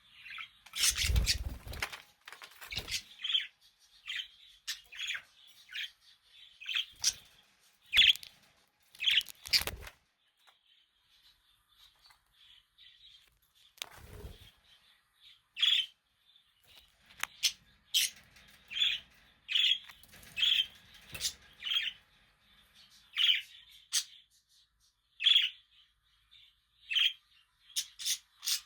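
Budgerigars chirping: a run of short, high chirps about a second apart, busier in the second half. A few sharp knocks or clicks are mixed in, the loudest about a second in with a low thump.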